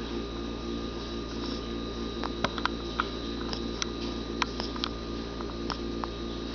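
Steady low electrical hum with a scattering of small, sharp clicks and ticks through the middle, and no clear grunting.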